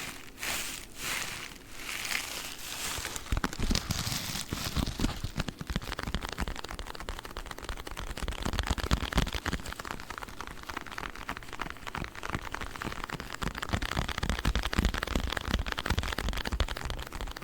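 A pack of sponges handled close to the microphone: a few soft, even swishes, about two a second, then from about three seconds in a dense crinkling crackle.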